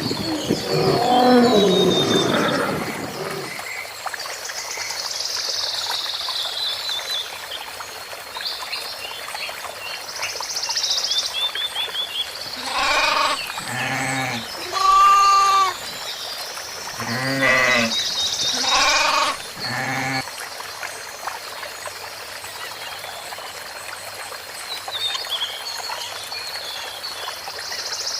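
Goats bleating, about six short bleats in a cluster midway, over steady high-pitched chirping. A loud call sliding in pitch fades out in the first few seconds.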